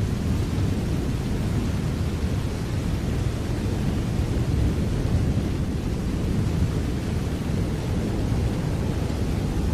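Steady rain, an even hiss with a strong low rumble underneath and no separate drops or thunderclaps standing out.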